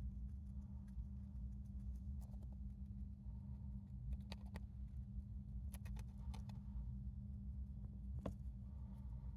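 A few faint, scattered clicks and rustles from a small hamster moving about, over a steady low hum.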